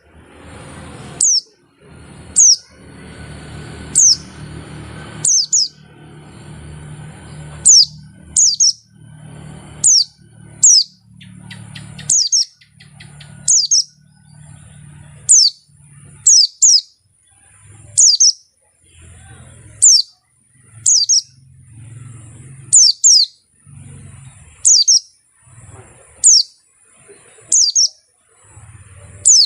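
White-eye (pleci) repeating a short, sharp call that sweeps downward, about one every second and a half, with a faint steady high tone between calls and a low rumble beneath.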